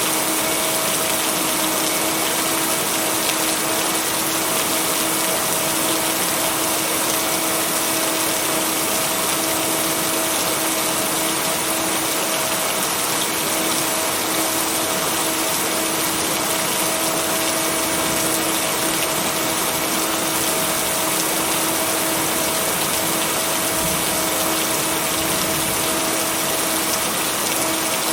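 Steady rain, an even hiss with no break, mixed with a steady low hum tone beneath it.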